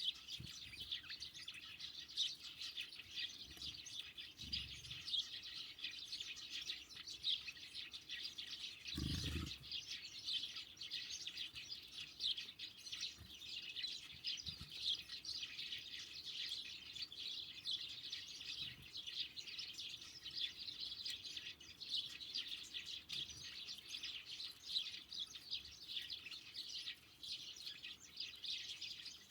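Small songbirds, such as sparrows and great tits, chirping continuously in a busy overlapping chatter, with a few short low thumps, the loudest about nine seconds in.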